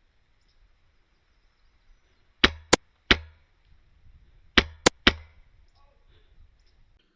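Airsoft gun firing: three sharp cracks in quick succession, then three more about two seconds later.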